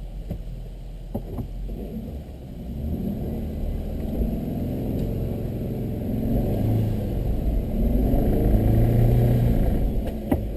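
Vehicle engine revving under load, its pitch rising and falling as it works harder, loudest late on before easing off near the end.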